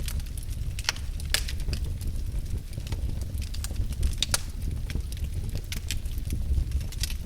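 Wood fire burning in a fireplace: irregular crackles and pops over a steady low rumble. The sharpest pops come about a second and a half in and just past four seconds.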